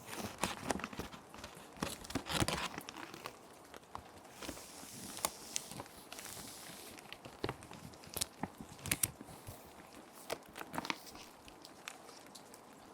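Plastic sheet protectors crinkling and crackling as they are handled, with a longer soft swish about five seconds in as a sheet of paper slides into one. A steady soft rain hiss runs underneath.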